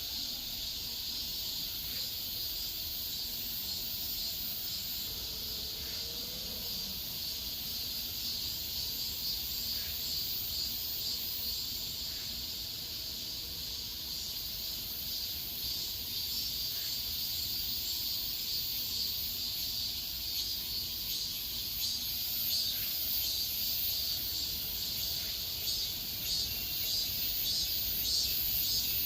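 A steady, high-pitched chorus of summer insects buzzing, growing slightly louder toward the end.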